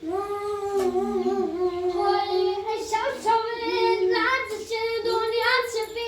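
A high-pitched, child-like voice in long held tones that bend and waver, like singing or a drawn-out wail.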